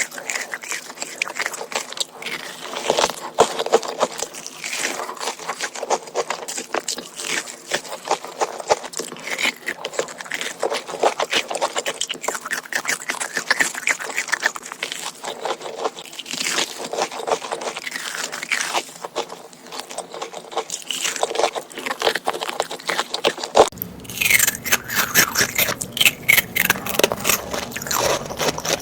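Close-miked eating sounds: rapid crunching bites and chewing of crisp food, with scraping. About 24 seconds in, the sound cuts to another eating clip with a low background hum.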